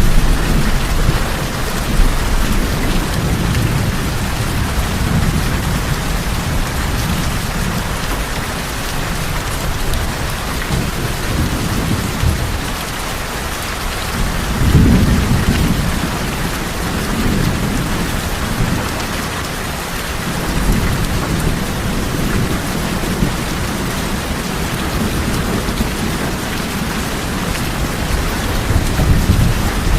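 Steady rain drumming on tin roofs, with thunder rumbling low underneath; a louder roll of thunder swells about halfway through.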